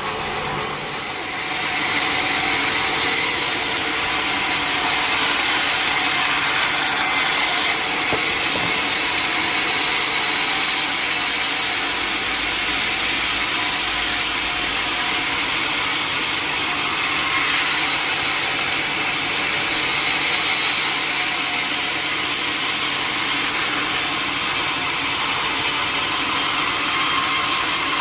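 Sawmill blade cutting lengthwise through a mahogany log: a steady, unbroken sawing noise that grows louder about two seconds in as the cut gets going, then holds.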